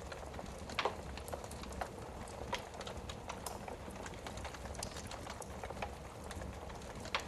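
Wood fire burning in a fireplace: a low steady rumble of flame with irregular crackles and pops, the sharpest about a second in and near the end.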